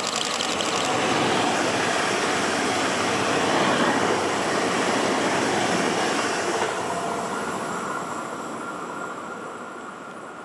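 Train rolling past on the rails, a dense wheel-and-track noise that holds for about six seconds and then fades away as it moves off. A quick run of fine clicks is heard in the first second.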